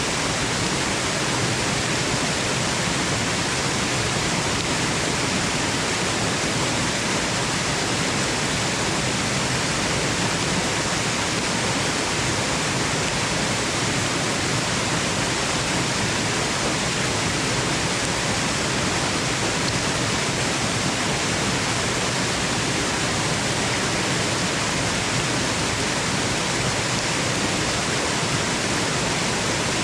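Waterfall rushing steadily: an even, unbroken hiss of falling water with no changes or separate events.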